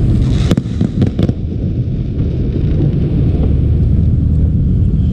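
Fireworks going off: a quick run of about four sharp bangs in the first second and a half, over a steady low rumble.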